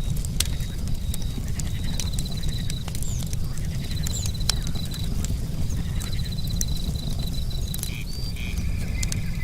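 Campfire crackling, with sharp pops scattered over a steady low rumble. Crickets chirp in pulsed trills about a second long, roughly every two seconds, and a steadier, lower trill starts near the end.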